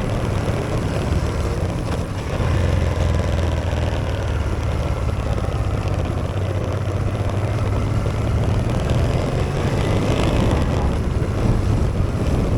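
Honda Transalp XL650V motorcycle's V-twin engine running steadily under way, a continuous low rumble with a note that drifts only slightly.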